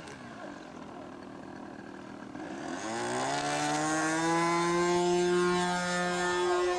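Radio-controlled model seaplane's engine running, climbing in pitch as it throttles up about halfway through, then holding a steady high note.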